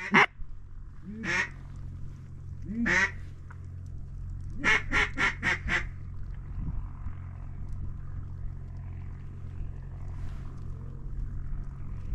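Hen mallard quacks, most likely blown on a duck call: a single quack about a second in, another near three seconds, then a quick run of five quacks. A steady low rumble runs underneath.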